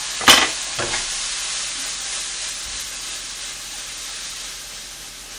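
Scrambled egg, cabbage and diced meat sizzling steadily in a hot frying pan, the stir-fry base for egg fried rice, slowly growing a little quieter. Near the start come a sharp knock and a smaller one, a wooden spatula striking the bowl and pan.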